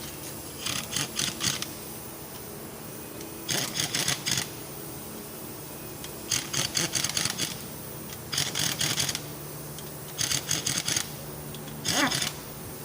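A ratchet wrench clicking in about six short bursts of rapid clicks, each under a second and spaced a second or two apart, as a bolt is worked on the differential. A steady low hum runs underneath.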